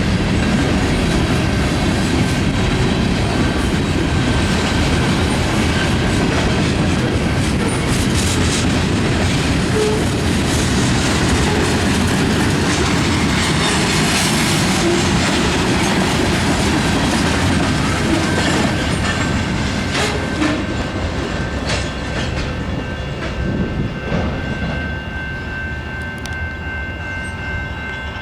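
A Canadian National freight train rolling past: steady loud rumble and clickety-clack of the cars' wheels over the rail joints. The noise eases a little after about twenty seconds, and thin, steady high tones come in near the end.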